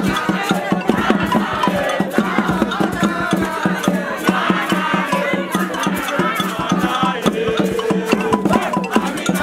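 A group of voices singing and chanting together over fast, rhythmic hand percussion.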